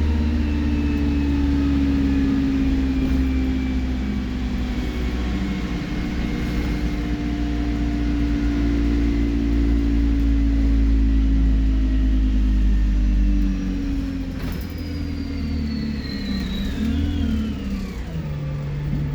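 Alexander Dennis Enviro 200 bus engine running under load with a high turbocharger whistle drawn out above it. About 14 seconds in the engine drops off and the whistle falls steeply in pitch as the turbo spools down.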